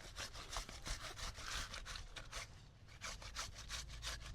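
Quick, even rasping strokes, about five or six a second, with a short pause midway, typical of vegetables being grated by hand on a metal grater.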